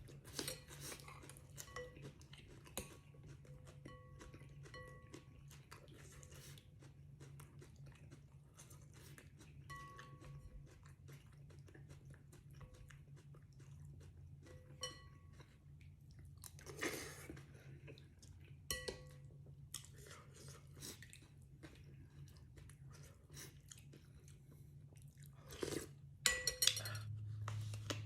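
A person chewing and crunching food close to the microphone, with many small wet mouth clicks and a couple of louder bursts about 17 and 26 seconds in. A steady low hum runs underneath and gets louder near the end.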